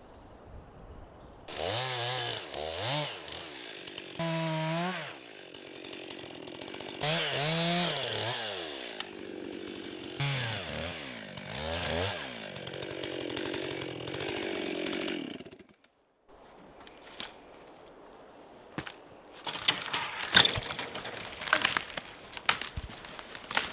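Two-stroke chainsaw revving up and down again and again, then cut off suddenly about two-thirds of the way through, followed by scattered knocks and clatter.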